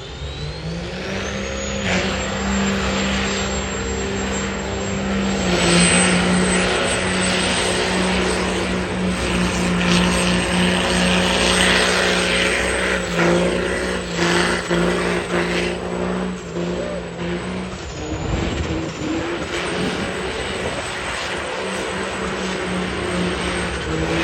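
Engine of a high-horsepower truck running hard at a steady pitch, with a high whistle that rises in the first second or two and then holds. The engine note drops out about 18 seconds in and comes back about two seconds later.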